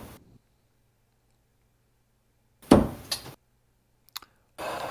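Darts striking a dartboard: one sharp thud right at the start, then two more close together a little under three seconds in, and a faint click about a second later. A short stretch of steady hiss comes in near the end, over a faint hum.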